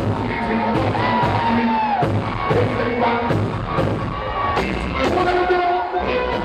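Live band music with a singing voice over a steady drum beat, about two strokes a second.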